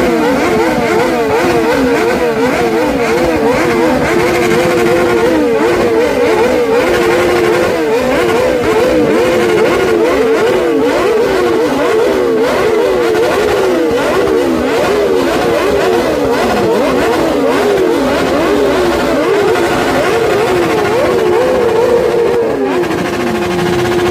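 Motorcycle engines revving over and over, their pitch rising and falling without pause, with several engines overlapping.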